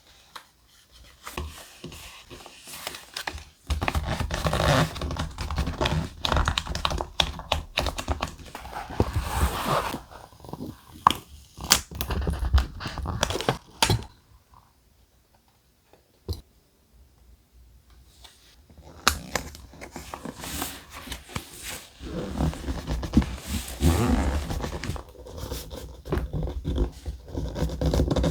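Thick paper being handled and worked, rustling with many small clicks and taps, in two busy stretches with a short lull in the middle.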